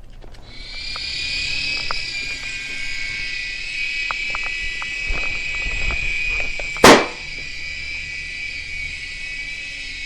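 Small electric motors of an Air Hogs Sharpshooter toy coaxial helicopter spinning up and whining steadily in flight. A single loud, sharp pop comes about seven seconds in.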